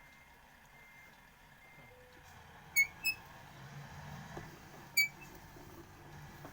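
Three short electronic beeps from a vehicle, two close together and a third about two seconds later, over a faint low vehicle hum.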